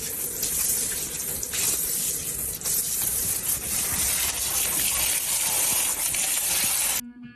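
Water gushing steadily, as from a running tap or hose, cutting off suddenly near the end.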